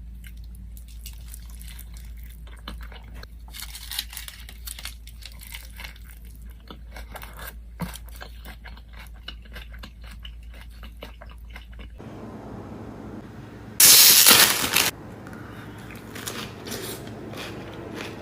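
Close-miked eating sounds: chewing with many small wet mouth clicks. About two-thirds of the way through, a very loud noisy rustle or crunch lasts about a second, followed by scattered light clicks of a utensil against a container.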